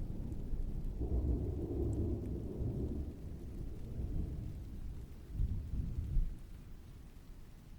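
Distant thunder rolling in a long low rumble that swells again a little after five seconds and then dies away, over faint steady rain.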